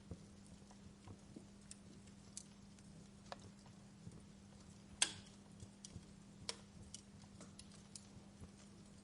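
Fire in a fireplace crackling, with sparse, irregular pops and one louder crack about five seconds in, over a faint steady low hum.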